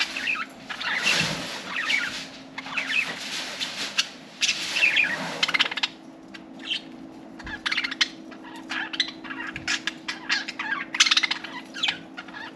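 Several budgerigars chattering: rapid chirps, warbling and sharp clicks running together, busiest in the first half. A faint steady hum runs underneath.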